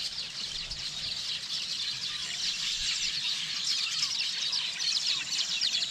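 Dense chorus of many small birds chirping rapidly and continuously, with a few lower arching calls standing out now and then.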